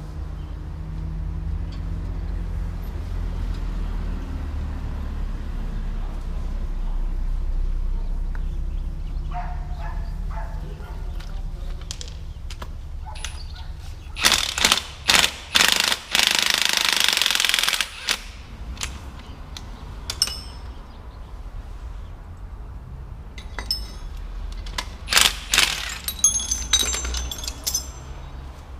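Tool work on a car's front wheel hub: a few sharp metallic bangs and one rattling burst lasting about a second and a half about halfway through, then another run of sharp knocks near the end, over a low steady rumble.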